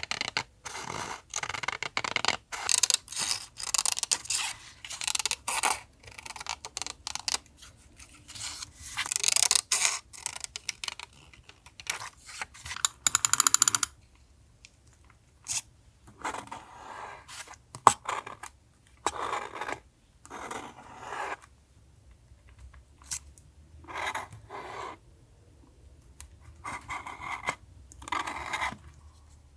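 Paper being handled for collage journaling: crinkling, scraping and rubbing. It goes on almost without a break for the first half, then comes as separate short strokes with pauses between them.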